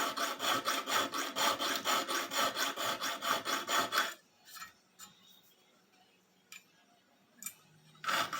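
Hand file rasping a notch into the steel spine of a butcher knife in quick back-and-forth strokes, about five a second. It stops about four seconds in and starts again near the end.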